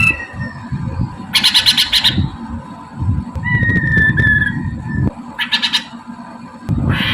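Poksay Mandarin (giant laughingthrush) singing: clear, slightly falling whistled notes alternating with short, harsh chattering bursts.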